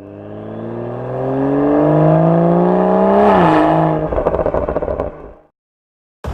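BMW 4 Series engine through an aftermarket valved sports exhaust, accelerating with a steadily rising pitch, then a quick dip in pitch about three seconds in, like an upshift. Rapid exhaust crackles and pops follow before the sound fades out.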